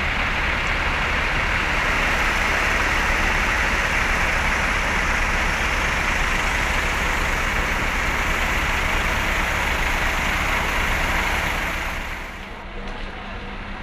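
A large bus engine running close by: a loud, steady rumble with a strong hiss-like noise. It drops away about twelve seconds in.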